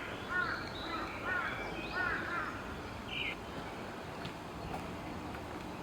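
Bird calling: a run of short, arched calls in the first two and a half seconds, one more high note a little later, over a steady low rustle.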